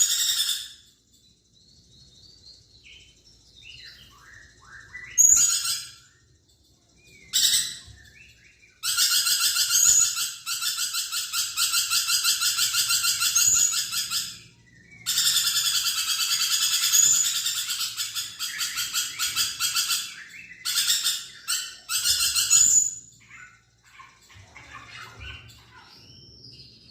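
Lorikeet calling in shrill, rasping screeches: a couple of short bursts, then two long bouts of rapid chattering screeches lasting about five seconds each, then a few more short bursts, with soft twittering in the gaps.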